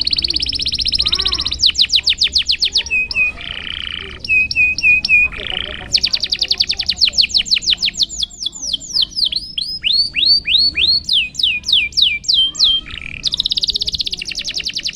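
Domestic canary singing a long, varied song. It moves through fast trills and rapid repeated chirps, then a run of falling whistled notes partway through.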